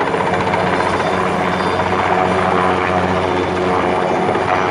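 Helicopter running close by, a steady, even rotor-and-engine drone that grows louder right at the start and then holds. It is ferrying sacks of roofing debris off a roof.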